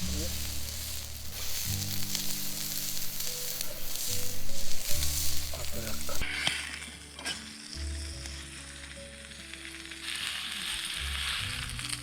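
Wild boar meat sizzling as it fries in a hot pan over a campfire, the sizzle easing off somewhat about halfway through.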